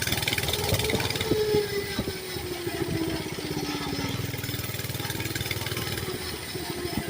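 Mini bike's small engine running as it is ridden along a road, its note rising and falling a little with the throttle, with a few knocks or rattles in the first couple of seconds.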